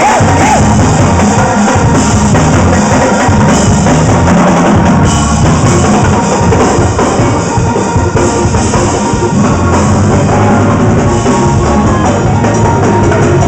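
Live gospel band playing a loud praise-break groove, driven by a drum kit with bass drum and snare.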